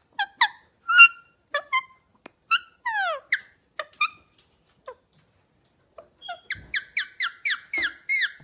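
A small bird chirping: short, downward-sliding chirps with gaps between them, then a quicker run of about four chirps a second in the last two seconds.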